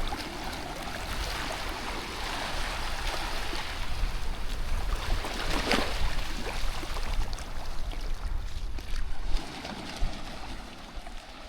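Small waves washing onto a sandy beach, with a gusty low rumble under the surf that eases off near the end.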